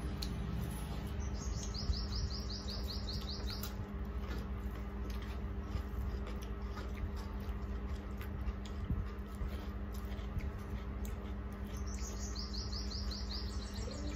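A small bird gives two fast series of high, evenly repeated chirps, one shortly after the start lasting about two seconds and another near the end, over a steady low hum. Faint clicks and smacks of eating by hand from steel plates run underneath.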